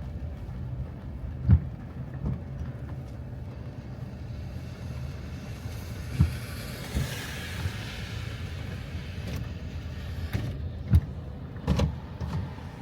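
A road vehicle running with a steady low rumble, with several sharp knocks and a hiss that swells and fades around the middle.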